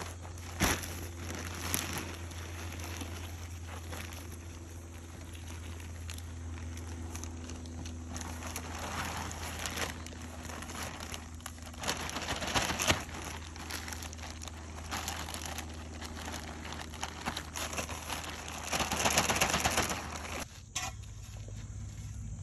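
Cold patch asphalt being worked by hand: gritty scraping, crunching and crinkling with scattered knocks, over a steady low hum that cuts off near the end.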